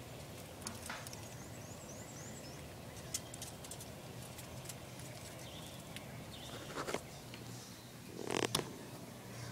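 A small bird calls a quick run of about six short, falling high notes about a second in, with a few fainter calls later. Scattered sharp clicks and a louder rustling knock near the end sound over a steady low hum.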